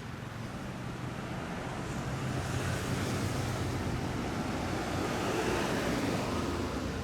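A car going by: a low engine hum under a broad rush of tyre and wind noise that swells over the first few seconds and eases off near the end.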